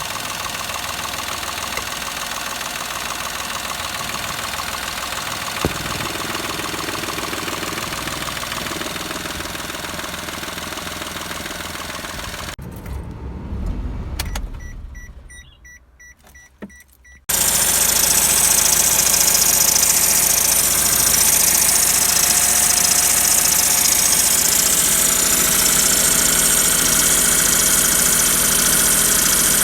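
Daihatsu Move's three-cylinder KF engine running steadily. About halfway through it dies away almost to nothing. A few seconds later a louder steady running sound starts abruptly, with a strong high hiss.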